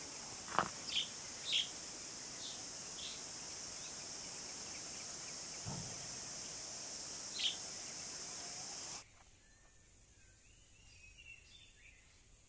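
Forest ambience: a steady, high-pitched insect buzz with short bird chirps over it, which cuts off suddenly about nine seconds in, leaving only faint bird whistles.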